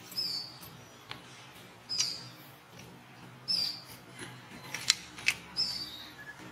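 A bird's short, high chirp, slightly falling, repeating four times about every one and a half to two seconds against faint outdoor background hiss, with a few sharp clicks near the middle.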